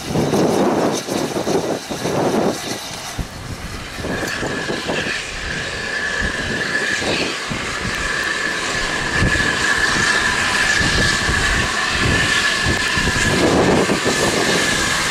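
A steam train approaching and growing louder, with a steady high-pitched tone setting in about four seconds in and holding to the end. Gusty noise fills the first few seconds.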